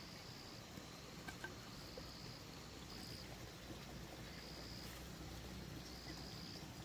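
Insect trilling in short, high-pitched bursts, about one every second, over a low steady background rumble, with a couple of faint clicks just over a second in.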